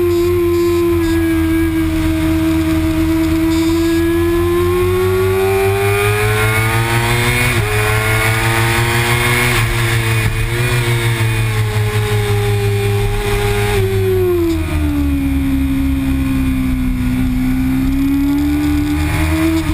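Stock Kawasaki Ninja ZX-6R's inline-four engine running hard at high revs, heard from an onboard camera with wind rush. Its pitch climbs slowly for several seconds, dips briefly at a quick upshift about a third of the way in, holds, then falls around two-thirds through and climbs again near the end.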